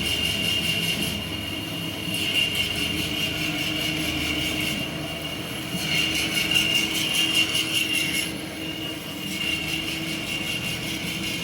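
CNC wood router's spindle running with a steady high-pitched whine while it cuts, the higher cutting hiss swelling and dropping every few seconds.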